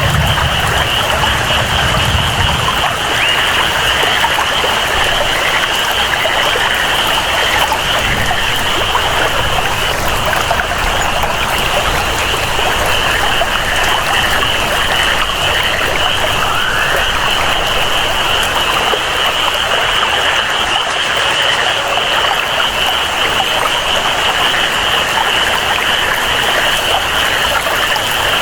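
Rainforest ambience: steady rain and running water under a continuous high-pitched chorus of calling frogs or insects that holds one pitch throughout.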